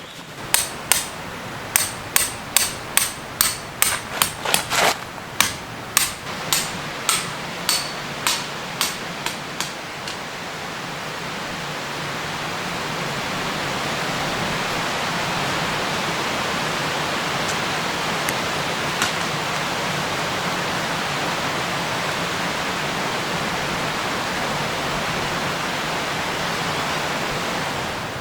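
Metal hammer repeatedly striking tent pegs, about two blows a second for roughly ten seconds. A steady rushing noise follows, growing louder and then holding.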